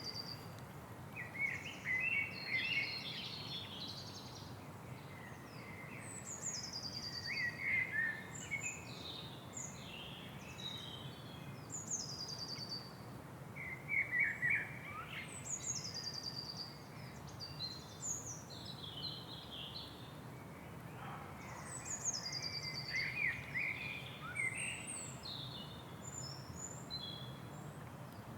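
Several birds singing: one repeats a short, high, falling phrase every five or six seconds, while others chirp and warble in between, over a steady low hiss.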